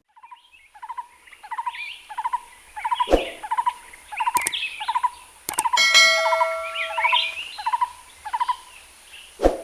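A bird calling in a steady rhythm of short, repeated notes, about two to three a second. A few sharp clicks fall in among the notes, and a brief steady ringing tone comes in just past the middle.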